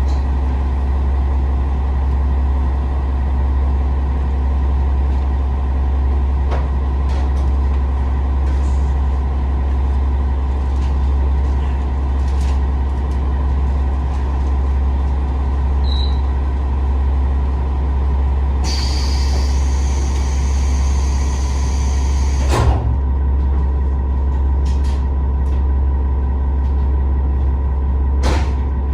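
KiHa 47 diesel railcar's engine running with a steady low hum. About two-thirds of the way through, compressed air hisses for roughly four seconds and stops with a sharp clunk.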